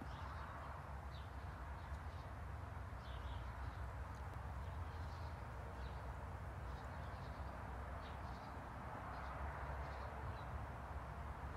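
Small birds chirping now and then in short, high calls over a steady low rumble and hiss of background noise.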